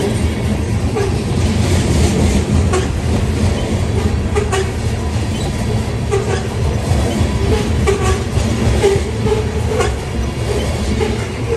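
Covered hopper cars of a freight train rolling past close by: a steady low rumble of steel wheels on rail, with repeated clickety-clack clicks as the wheel trucks cross rail joints.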